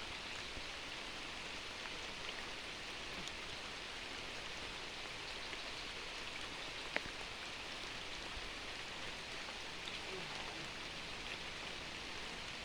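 Steady rain falling, an even hiss, with one sharp tick about seven seconds in.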